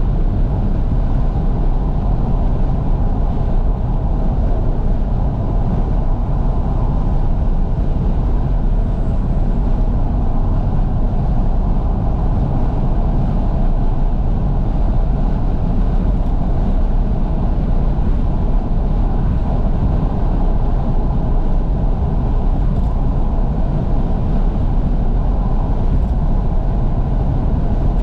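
Steady road, tyre and wind noise inside a 2012 Fiat 500S driving along with all its windows wide open, the air rushing in and buffeting the microphone. It is an even, deep rumble with no changes.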